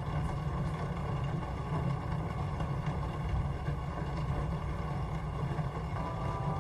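Steady, dense rain noise with a heavy low rumble. Soft sustained music tones come in near the end.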